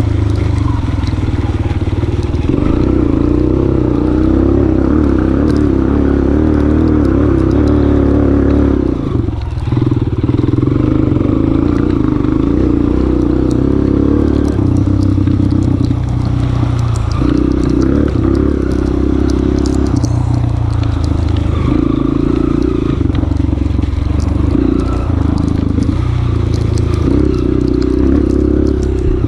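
Honda CRF230F's air-cooled four-stroke single-cylinder engine running under changing throttle on a trail ride, with a brief let-off about nine seconds in. Scattered ticks and clatter ride over the engine.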